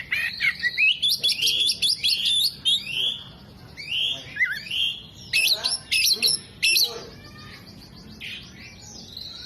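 Oriental magpie-robin singing hard: a rapid, varied run of sharp chirps and quick rising and falling whistles, the kind of song with mimicked calls of other birds that keepers prize. It is loudest over the first three seconds, with softer phrases near the end.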